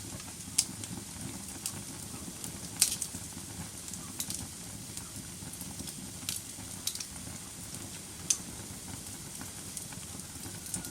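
Wood fire burning in a fireplace: a steady low rush of flame with irregular sharp crackles and pops from the burning logs, the loudest pops about three seconds in and near eight seconds.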